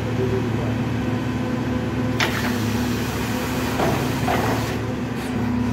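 Borewell drilling rig's engine running steadily with an even hum, with a brief harsh noise about two seconds in and another rougher patch around four seconds.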